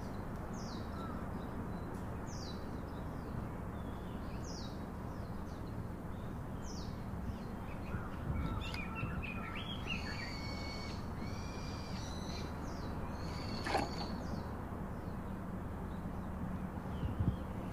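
Birds singing over a steady low outdoor background noise: a short falling chirp repeated about once a second, then more varied song in the middle. A single short sharp knock comes about two-thirds of the way through.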